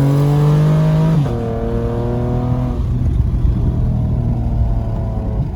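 Car engine accelerating hard, its pitch climbing, dropping at a gear shift about a second in and climbing again, then fading into a lower rumble after about three seconds.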